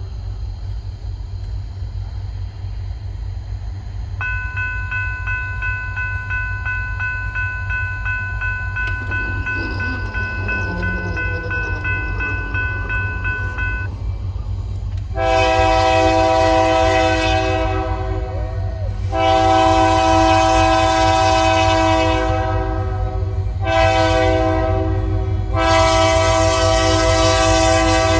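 Diesel locomotive air horn sounding the grade-crossing signal, two long blasts, a short one and a long one, starting about halfway through, over a steady low rumble. Before the horn, a steady high tone runs for about ten seconds.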